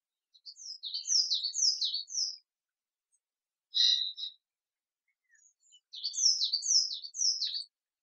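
A songbird singing: two phrases of quick, high, downward-slurred notes, each about two seconds long, with a single short call between them, on an otherwise silent background.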